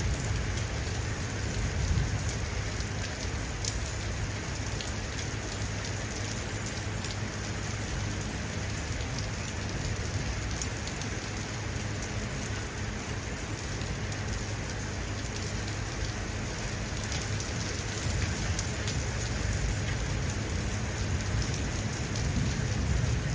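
Steady rain falling: a constant hiss with scattered sharp drop taps.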